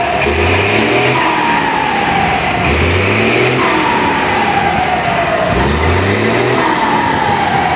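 Turbo-diesel engine of a Mercedes-Benz 1721 bus revved three times. After each blip the turbocharger gives a falling whistle as it spools down. The turbo has been given a 'pente' modification to make it whistle.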